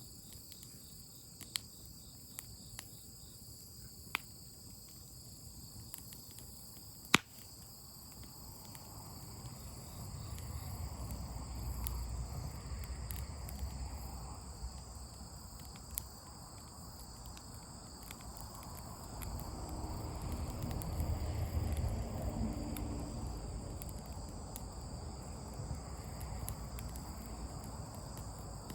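Steady chorus of crickets trilling, with a few sharp crackles from a campfire in the first several seconds, the loudest about seven seconds in. Twice the sound swells with a long low rumble, around ten seconds in and again around twenty.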